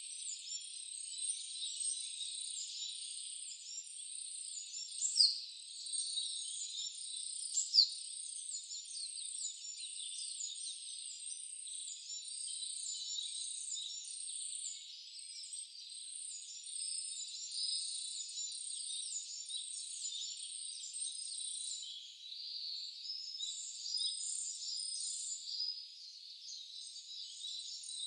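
Wild birds chirping and twittering almost continuously over a steady hiss, with two louder sharp calls about five and eight seconds in. The sound is all high-pitched, with nothing low.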